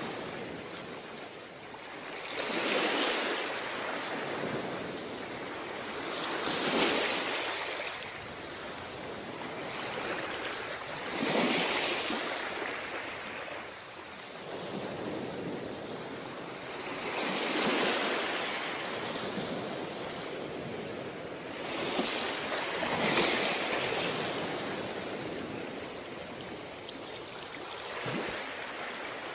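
Ocean surf breaking on a beach: waves crash every four to six seconds, each surge rising and washing back into a steady hiss.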